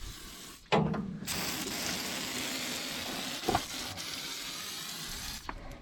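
A sprayer hissing steadily for about four seconds as something is sprayed onto combine parts, after a short knock about a second in and with a brief click midway.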